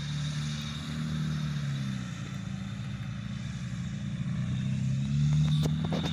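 A vehicle engine running steadily, its pitch drifting a little up and down, with a few clicks near the end.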